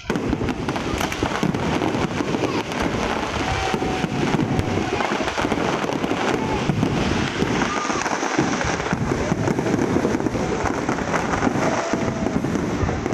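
Fireworks display: a dense, continuous barrage of bangs and crackles that starts abruptly and keeps up steadily.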